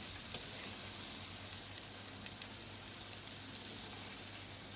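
Chicken and potato cutlets frying in hot oil: a steady sizzle with scattered spits and crackles.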